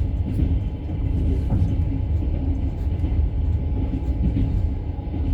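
Steady low rumble of travel noise inside a moving vehicle's cabin.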